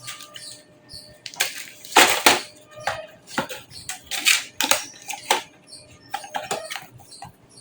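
Irregular sharp clicks and clacks, more than a dozen with uneven gaps and some with a brief metallic ring, from computer hardware and a desktop PC case being handled during assembly.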